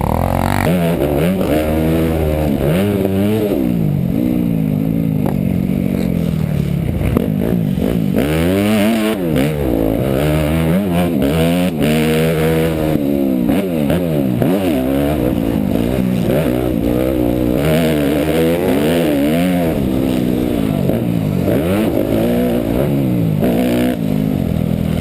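Motocross bike engine being ridden hard, its pitch rising and falling over and over as the throttle is opened and closed.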